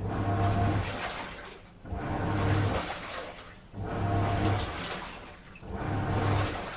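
Washing machine on a strong wash cycle, its drum tumbling the water-laden load in rhythmic strokes. About every two seconds a swish of water rises with the motor's hum and then fades, four strokes in all.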